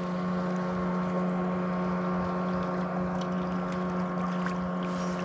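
Boat engine running with a steady, unchanging drone: a constant low hum with its overtones, and a few faint ticks over it.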